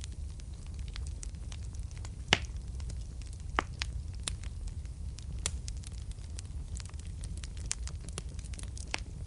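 Wood fire crackling in a fireplace: frequent small snaps, with a sharper pop about two seconds in, over a steady low rumble of the burning.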